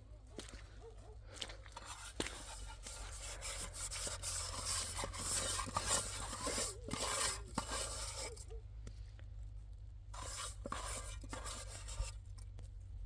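Scraping and rustling of handled objects, with scattered clicks, over a steady low hum.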